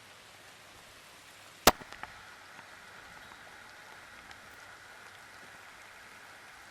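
Steady rain with scattered drops ticking on a car roof, and one sharp, loud tap about two seconds in followed by a few lighter ticks.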